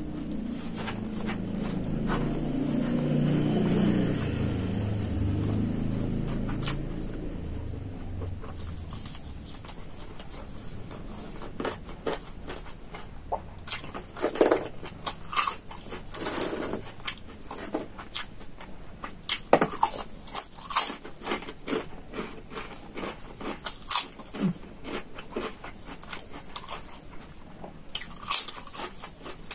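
Close-miked chewing of a rice-box meal: a stretch of heavy, low chewing, then from about halfway through many sharp, separate crunches and clicks of crisp food being bitten and chewed.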